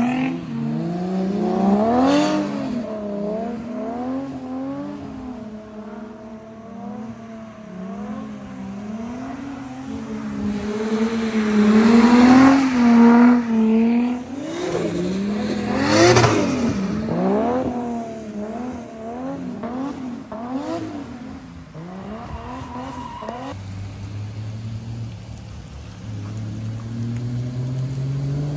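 Drift car engine revving up and down over and over as it slides on wet pavement, its pitch swinging with each throttle stab; loudest around twelve and sixteen seconds in. Near the end an engine rises steadily in pitch as a car accelerates.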